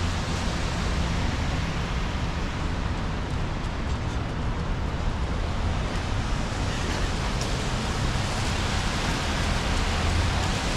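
Steady hiss of rain, with the low rumble of street traffic underneath.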